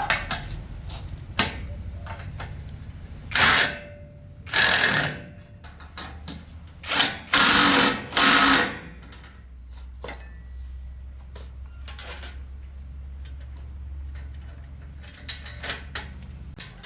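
Several short bursts from a power tool, each about half a second to a second long and bunched in the middle, over a steady low machine hum, with a few sharp clicks.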